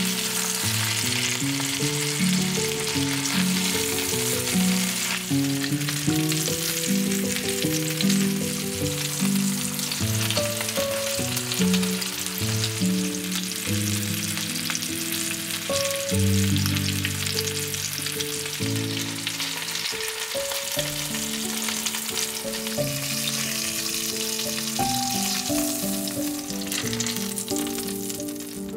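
Chicken drumsticks frying in hot fat in an enameled cast-iron pan, a steady sizzle throughout. Background music of held notes plays underneath.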